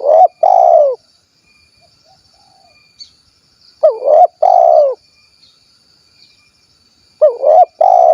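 A spotted dove (tekukur) cooing its 'kuk 1' song: three short coo phrases of two or three notes each, about three and a half seconds apart. A faint, steady high insect-like buzz runs behind the calls.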